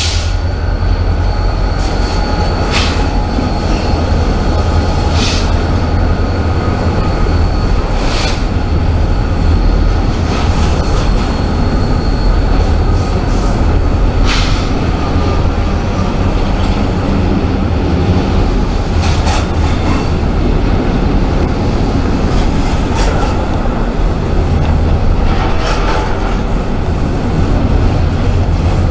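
Freight train rolling by with a steady low rumble. A thin, high wheel squeal runs through the first half and fades out around the middle, and sharp clanks come every few seconds.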